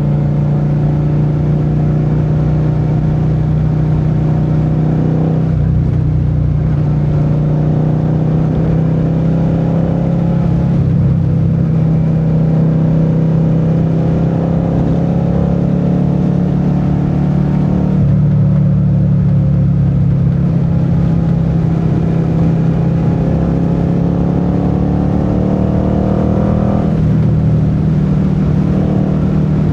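Suzuki SV650's 90-degree V-twin engine running under way. Its pitch climbs steadily and drops back about four times as the rider accelerates and eases off.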